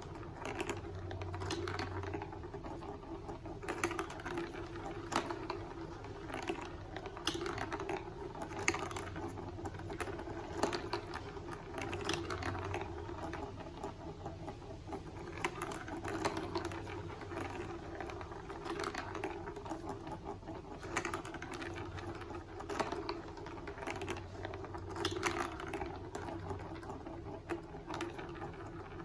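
Plastic marble-run building pieces clicking and clattering: irregular light taps, several a second, over a steady low hum.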